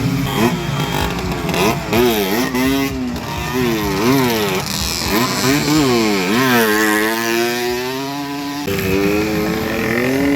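Small two-stroke motorcycle engines racing, their pitch climbing and then dropping sharply again and again as they rev up and change gear. At times two engines are heard at once.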